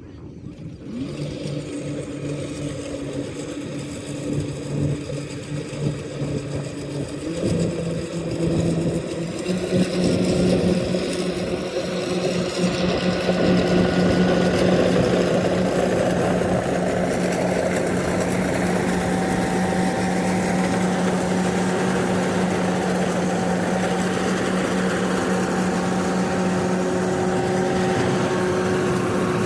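Rice combine harvester's engine running, growing louder over the first fifteen seconds with its pitch stepping up twice, then holding a steady drone.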